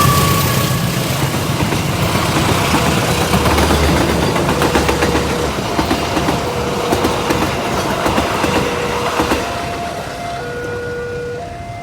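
A train passes over a level crossing, its wheels clacking over the rail joints, with the tail of its horn just at the start. The passing noise fades through the second half as the crossing's warning alarm, alternating steady electronic tones, comes to the fore near the end.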